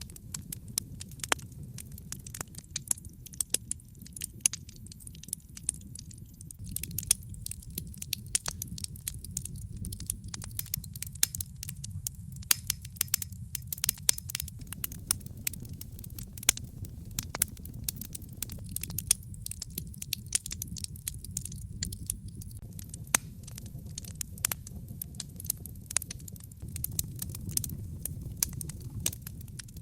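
Wood fire crackling in a fireplace: many irregular sharp pops and snaps, a few much louder than the rest, over a low steady rumble.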